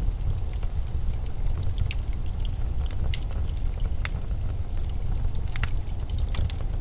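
Steady low rumble of storm wind, with scattered sharp crackles and ticks over it.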